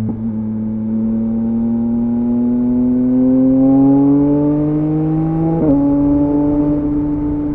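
2023 Yamaha MT-09's three-cylinder engine through a LeoVince LV Race exhaust, pulling with the revs slowly rising under gentle acceleration. Almost six seconds in, a quick upshift drops the revs a little, and the engine then holds steady.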